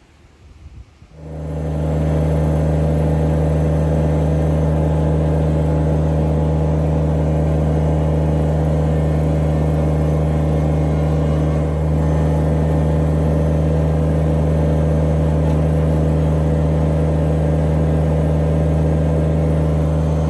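An engine starts up about a second in and runs steadily at constant speed, with a brief slight dip near the middle.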